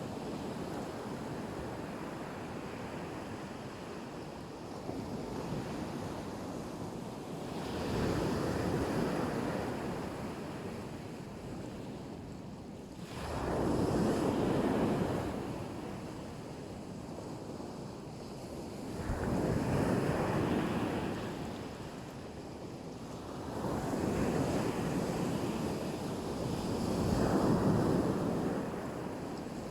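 Black Sea surf: waves breaking and washing onto the beach in slow swells every five or six seconds, over a steady wash of water and wind on the microphone.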